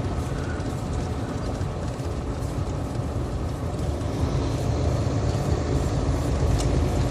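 Loaded semi-truck cruising on the highway: steady diesel engine drone with tyre and wind noise.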